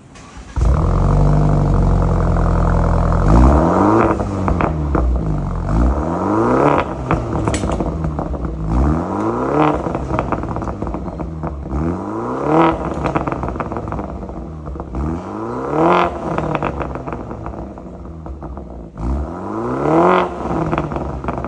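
BMW G22 420i four-cylinder petrol engine starting about half a second in and settling to a steady idle. It is then blipped about six times, each rev climbing and dropping back to idle, through an aftermarket exhaust with Varex valves, sport muffler and resonator, and Akrapovic tips.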